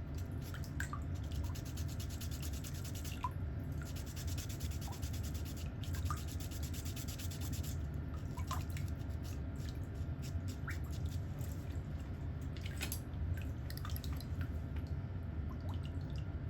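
Nail tool scraping at a toenail in rapid fine strokes, in two long spells near the start and a few seconds in, with scattered small clicks and ticks over a steady low hum.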